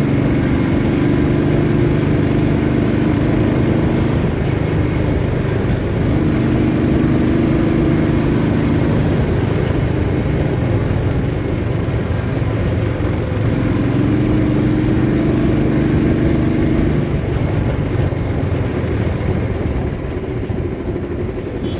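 Motorcycle engine running steadily under way in traffic, with a stronger engine tone swelling in three times for a few seconds at a stretch.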